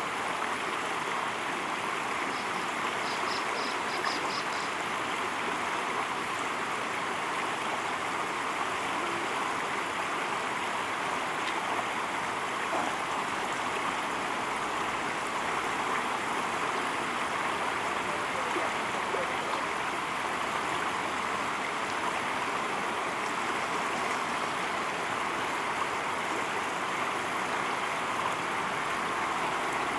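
River water running steadily over a shallow bed. About three seconds in there is a brief run of about five high chirps.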